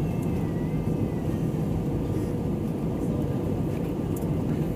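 Steady drone of an airliner's engines and airflow, heard from inside the passenger cabin during the approach to landing.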